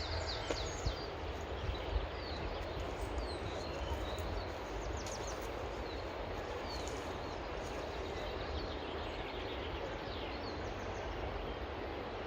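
Small birds chirping and singing over a steady rush of running water, with wind rumbling on the microphone.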